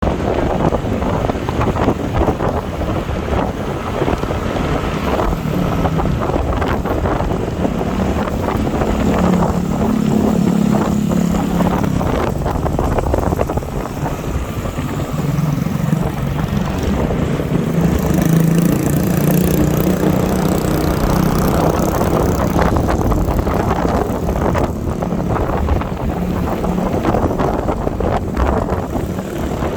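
Motorbike on the move: wind buffeting the microphone over the engine's low hum, which strengthens and fades several times.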